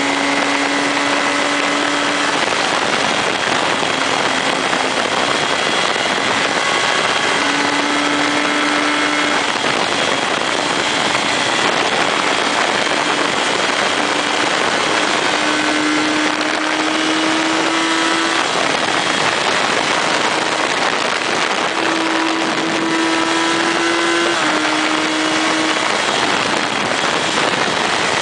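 Motorcycle engine running while riding, under a loud steady rush of wind and road noise; the engine note rises slowly in pitch a few times.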